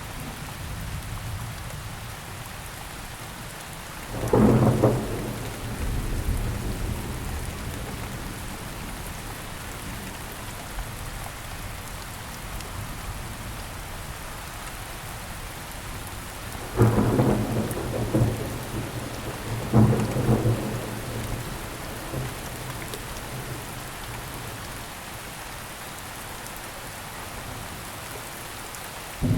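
Steady rain with thunder: three loud rumbles, one about four seconds in and two a few seconds apart past the middle, each fading over a second or two.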